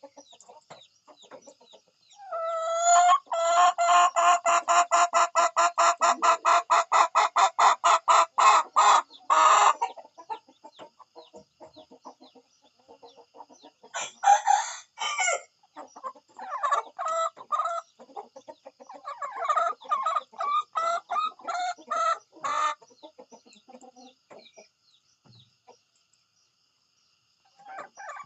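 Chickens clucking: a fast run of cackling clucks, about five a second, for several seconds, then a few louder clucks and scattered calls that die away near the end.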